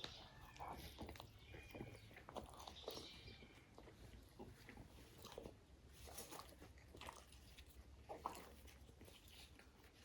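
A person chewing and biting food close to the microphone: quiet, irregular mouth clicks and smacks.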